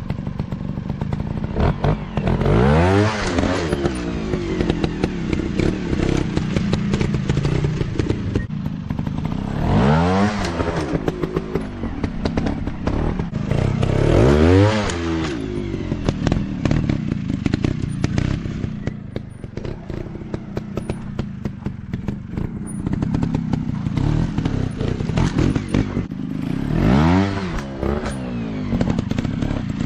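Dirt bike engines running and revving, the pitch rising and falling in four strong surges over a steady engine drone, with clattering noise mixed in.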